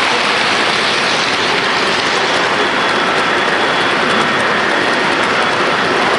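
Model train running on layout track: a steady rolling hiss with a faint high motor whine.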